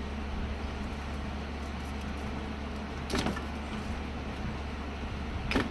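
Two sharp clicks, the second louder, as small retaining pins are worked off a water dispenser's pump, over a steady low hum.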